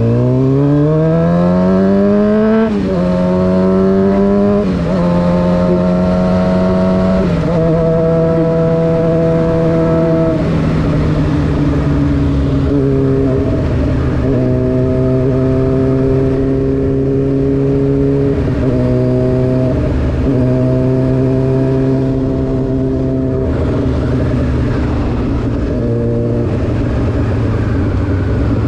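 Honda CBR600F4's inline-four through an SC Project exhaust, accelerating up through the gears: the revs climb and drop back at four upshifts in the first ten seconds. It then cruises at fairly steady revs, with brief lifts of the throttle.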